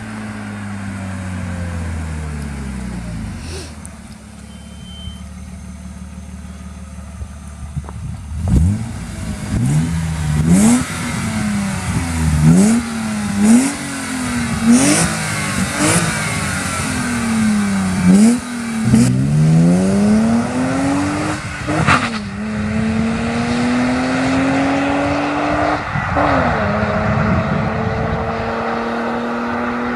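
BMW E36 320i's M52B20 2.0-litre straight-six through a custom rear muffler. Revs fall away at first, then quick throttle blips come about once a second, with sharp cracks on several of them. Near the end come two long pulls with rising pitch, split by a gear change.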